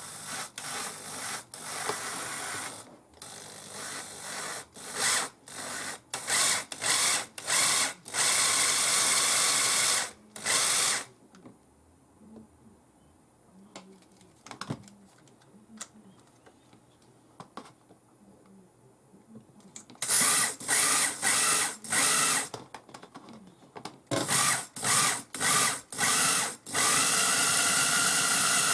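Handheld power tool run in repeated on-off bursts, mostly short pulses with a few longer runs of a couple of seconds. The bursts stop for several seconds in the middle, then resume.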